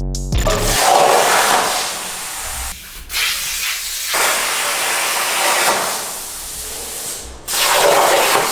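Loud hissing spray in several long stretches, broken off abruptly twice.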